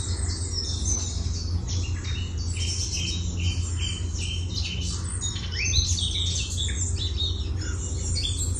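Songbirds singing and calling, a busy run of short high chirps and trills from more than one bird, over a steady low hum.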